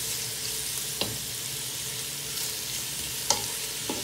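Pork strips and sliced hotdogs sizzling as they sauté in oil in a pan, with a wooden spatula stirring them and knocking against the pan a couple of times.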